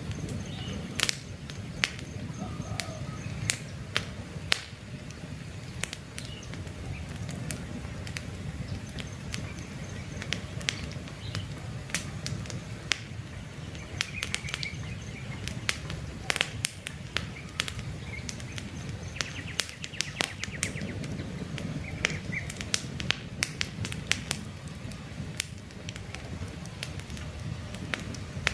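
Wood campfire crackling, with irregular sharp pops and snaps over a steady low rumble of the flames. Faint bird chirps come and go in the background.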